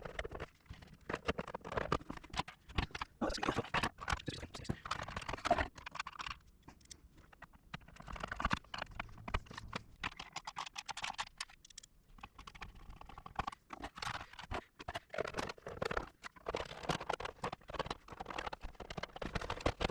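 Irregular taps, clicks and knocks of things being handled, with no steady rhythm.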